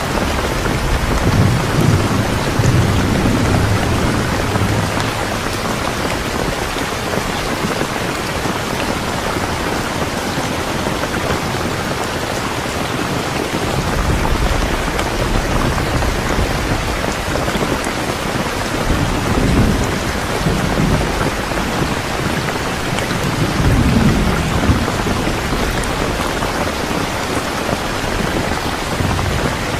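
Steady rain, with low rumbles of thunder swelling up three times.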